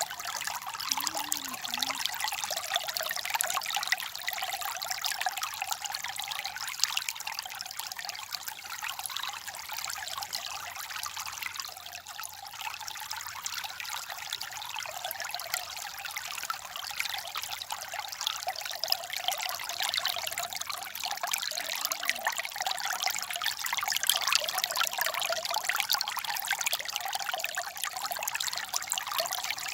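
Steady babble of a small stream: water trickling and splashing over stones, with no pauses.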